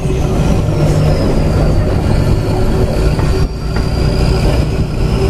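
Excursion train in motion, heard from aboard: the diesel locomotive's steady low rumble, with a faint high whine above it that drifts slightly lower.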